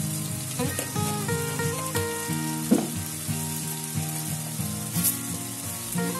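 Fried onions and spice powders sizzling steadily in hot oil in a kadai, under background music with a simple melody of short, stepping notes.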